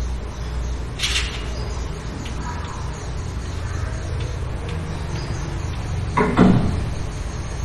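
Jerusalem cricket making its defensive sound in short raspy bursts: a brief high one about a second in and a louder, lower one a little after six seconds, over a steady low hum.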